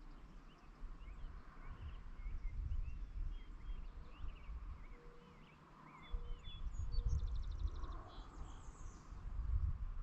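Small birds chirping and singing, many short rising and falling notes, with a rapid high trill about seven seconds in and again shortly after. Under them is a low, gusty rumble of wind on the microphone that swells and fades several times.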